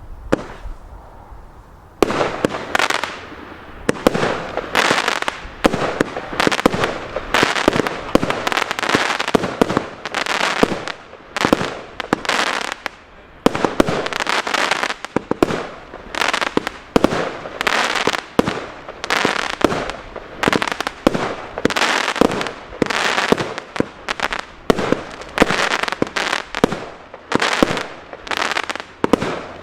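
50-shot cake firework firing in a rapid, continuous volley: shot after shot of sharp bangs, about one to two a second, with crackle between them. It starts after a quieter first two seconds.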